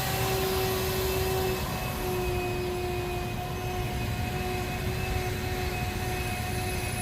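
A motor running steadily with a constant whine.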